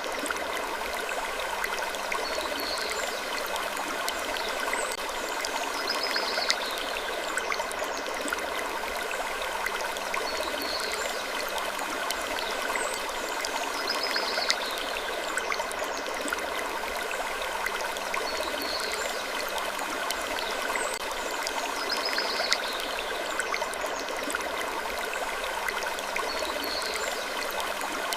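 Gentle wood creaking sleep ambience over a steady rushing hiss, with small high sounds recurring every second or two.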